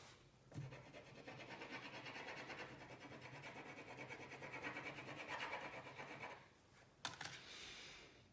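Colouring tool scratching on paper in rapid back-and-forth strokes as a drawing is coloured in. It stops about six seconds in, with a short burst of scratching again near the end.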